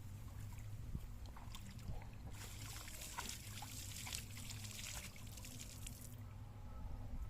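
Water trickling and pattering for about four seconds, starting a couple of seconds in and cutting off abruptly, over a steady low hum.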